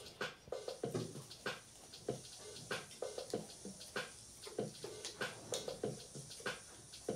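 Close-miked chewing of grilled chicken: irregular wet smacks and clicks from the mouth, a few each second.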